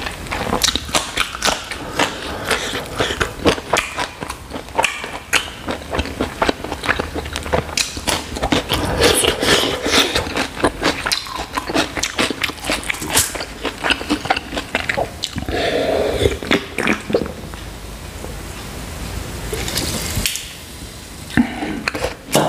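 Close-miked chewing and wet mouth sounds of a person eating spicy chicken curry and rice by hand: crisp bites, smacking and clicks. It starts with a bite of raw green chilli.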